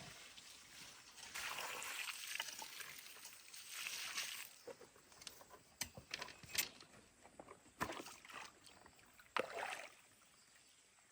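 Water being poured onto garden soil, a rushing splash for a few seconds and another short one near the end, with scattered knocks and clicks between.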